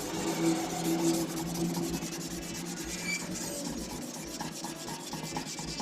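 Hand sanding of a Honda CG 125 fuel tank with 320-grit emery paper, quick repeated back-and-forth rubbing strokes over the painted metal. It is the sound of taking down deep scratches and the old paint before repainting.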